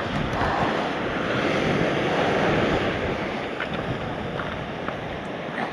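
Ocean surf breaking on a beach, a steady rushing noise, with wind on the microphone.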